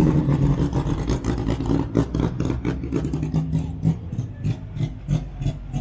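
A car engine running close by with a deep low rumble, strongest in the first second and a half and swelling again about three seconds in.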